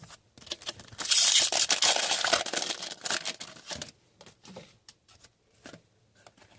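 Trading card pack wrapper being torn open and crinkled: a loud rip and rustle lasting about three seconds, starting about a second in, followed by light ticks of cards being handled.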